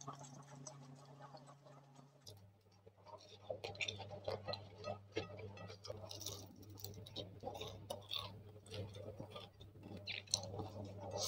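Close-miked eating sounds: chewing and small wet mouth clicks as fried rice is eaten by hand and an eggplant fritter is bitten into, over a low steady hum.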